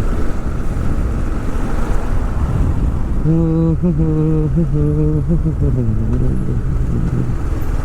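Steady wind and engine noise of a motorcycle at riding speed, heard from the rider's helmet. From about three seconds in, a low pitched tone steps and wavers through a few notes for about three seconds and then fades.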